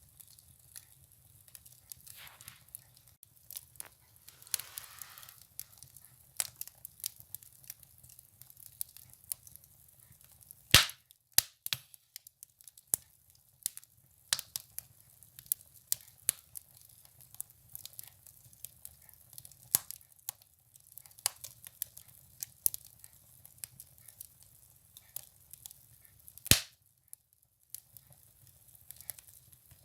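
Firewood burning in a wood stove, crackling with scattered small snaps and two loud pops, one about ten seconds in and one near the end. A brief hiss rises from the burning wood around four to five seconds in.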